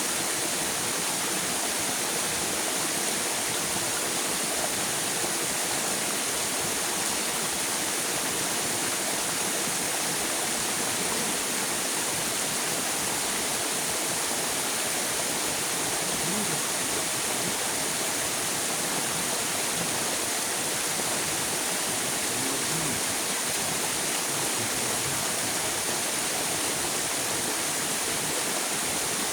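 River water flowing, a steady rushing that does not change.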